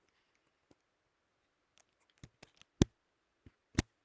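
A few sharp clicks and knocks against a quiet room. The loudest comes nearly three seconds in, with several smaller ones just before it and another shortly before the end.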